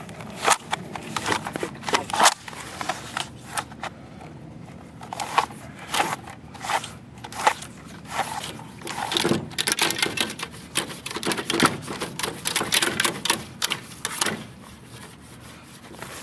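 Plumbing snake being worked through an air conditioner's condensate drain line, its cable giving irregular rattling clicks and scrapes against the pipe, busier in stretches through the middle and later on, as it clears built-up debris from the line.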